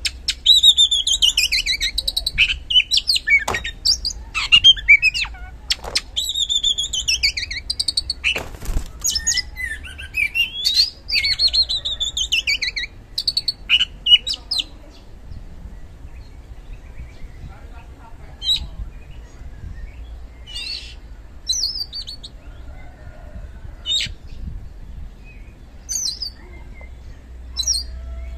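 Oriental magpie-robin (kacer) singing loud, rapid strings of whistled phrases that glide down in pitch, with a few sharp clicks among them. After about halfway the song thins to short, scattered chirps.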